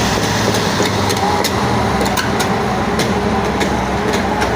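JCB JS205 tracked excavator's diesel engine running steadily under load, with irregular metallic clanks from the crawler tracks as the machine travels.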